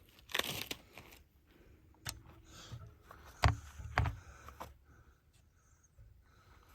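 Handling noises: a brief rustle about half a second in, then a few sharp clicks and knocks with dull thuds between about two and four and a half seconds in.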